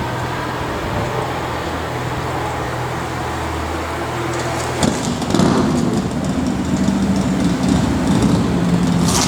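Lamborghini Gallardo V10 engine running with a low, steady note, then about five seconds in it gets louder and higher as the car accelerates.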